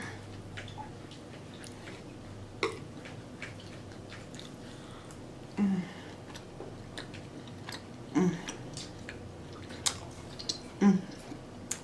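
Close-miked mouth sounds of someone chewing steak: soft chewing with scattered sharp lip-smacking clicks, and a few short low 'mm' murmurs.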